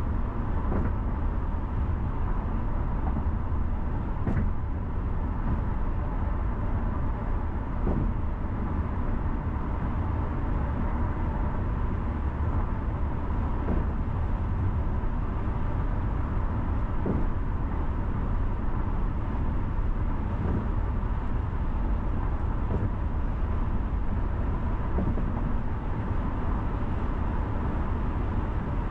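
Steady road noise of a car driving: a low, even rumble of tyres and engine, with a few faint light knocks spaced through it.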